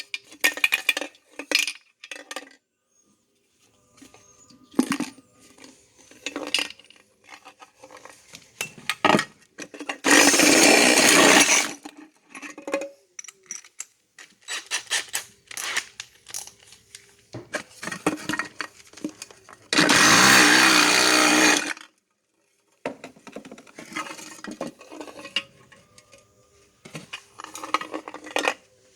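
Metal clinks and knocks from handling the cut-open spray paint can and its parts, broken twice by about two seconds of loud, steady mechanical whirring like a small power tool running.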